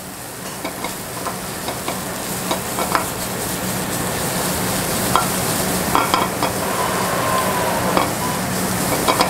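Cauliflower rice and sliced onions and peppers sizzling in oiled frying pans on a gas range, with a spatula scraping and tapping the pan as the rice is stirred. The sizzle grows steadily louder.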